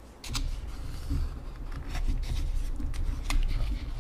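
A person eating instant ramyun noodles close to the microphone: chewing mouth sounds, with a few sharp clicks.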